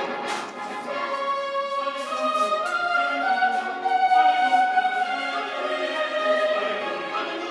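Orchestral music with held, sustained notes in a slow melody.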